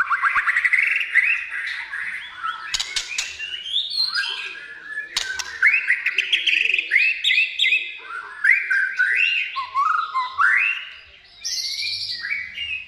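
White-rumped shama singing a long, varied song of rapid trills and quick rising whistled notes, phrase after phrase, with a short pause near the end.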